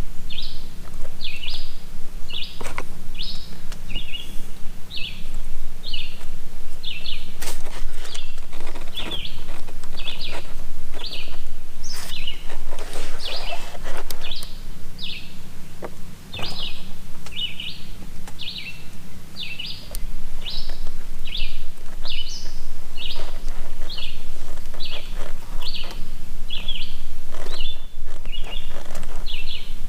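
A bird calling a short, high chirp over and over at an even pace, a little more than once a second, with scattered clicks and knocks and a steady low hum underneath.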